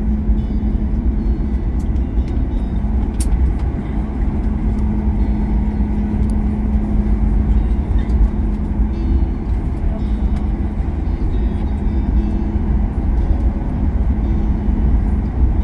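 Cabin noise inside a Boeing 737 MAX 8 around landing: a steady low rumble with a steady hum that fades near the end.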